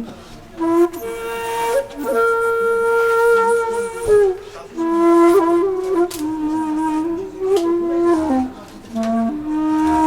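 Background music: a solo flute playing a slow melody of long held notes, bending and sliding between pitches.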